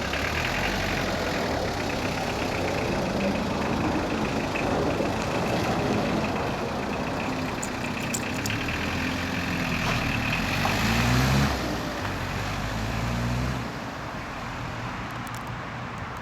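Isuzu pickup's four-cylinder diesel engine, fuelled on used cooking oil, running steadily; its pitch and loudness climb to a peak about eleven seconds in, then fall away, with a further drop in level a couple of seconds later.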